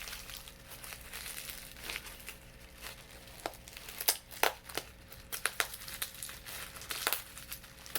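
Toy packaging being handled, crinkling with irregular sharp crackles, thickest about halfway through and again near the end.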